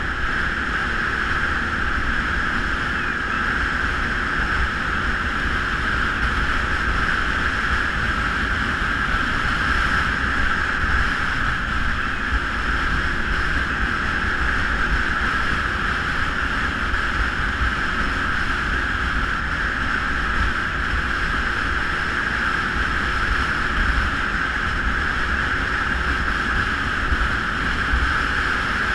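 Geon Scrambler 250 motorcycle running at a steady pace on the move, its engine mixed with wind and road noise on the microphone.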